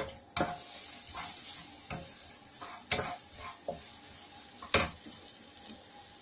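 Chopped onion sizzling in hot oil in a wok as it is stirred with a wooden spatula, which knocks against the pan several times; the sharpest knock comes near the end.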